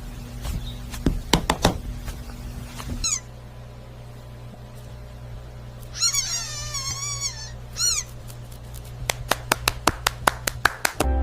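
A cat meows: one long call with a wavering pitch about six seconds in, then a shorter one just after. Sharp clicks and crackles come before and after it, coming quickly near the end.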